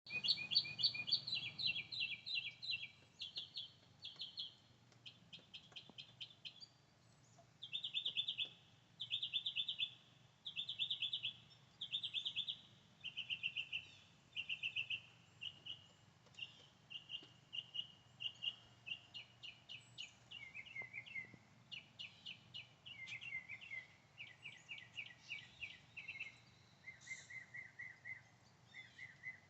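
Songbirds singing rapid trills of about a second each, one after another every second or two, some higher and some lower in pitch.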